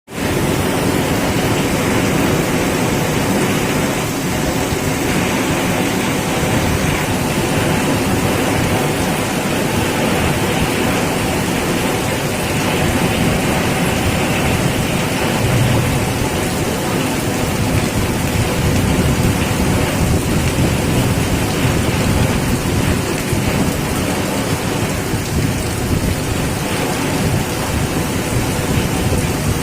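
Heavy rain driven by strong wind: a loud, steady, dense rush with a heavy low rumble that swells and eases a little.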